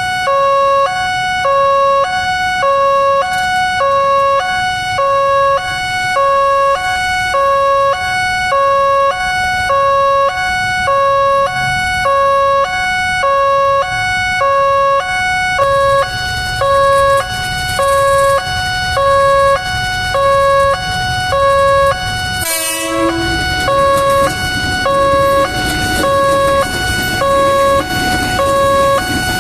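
Railway level-crossing warning alarm: an electronic two-tone chime alternating between two pitches in a steady, even rhythm, a little under one cycle a second, over a low rumble. About 22 seconds in it breaks off for a moment and a similar alarm takes over.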